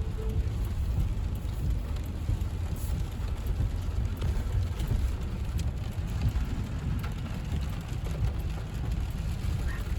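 Inside a moving car in the rain: a steady low road and engine rumble, with rain hitting the car body and glass in scattered faint ticks.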